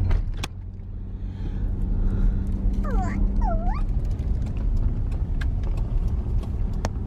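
Car driving with a steady low road rumble in the cabin, and a few short high whining cries about three seconds in.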